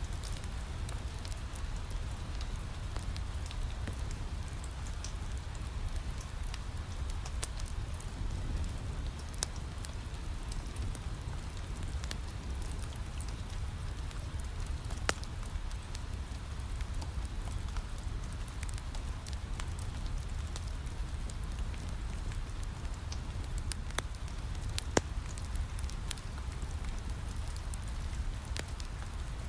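Steady rain with a crackling wood fire: a constant rain wash under scattered small crackles, with a couple of sharper pops from the fire.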